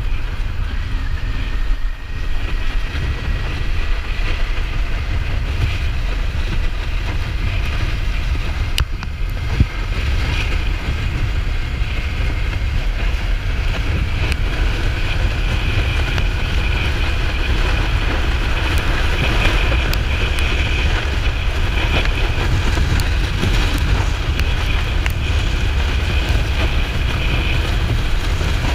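Kawasaki Ninja 400's parallel-twin engine running steadily while the motorcycle is under way, under heavy wind buffeting on the microphone.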